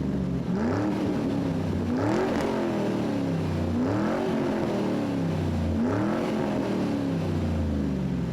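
A car engine being revved over and over: four blips in all, each climbing quickly in pitch and then sinking slowly back toward idle.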